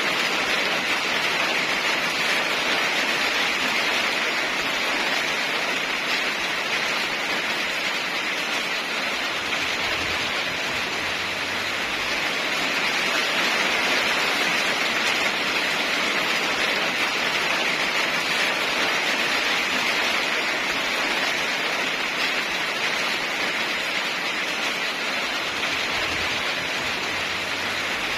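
Steady heavy rainfall, an even hiss with no thunder.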